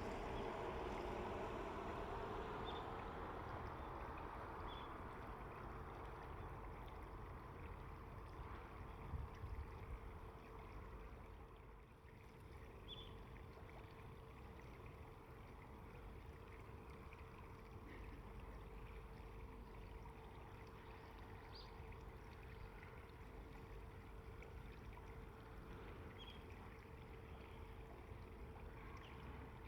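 Faint, steady rush of flowing river water, with a few short, high bird chirps now and then.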